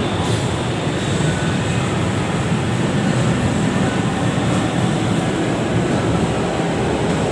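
LRT-1 third-generation light-rail train running past the platform as it pulls out of the station, a steady rumble of wheels on rail and motors.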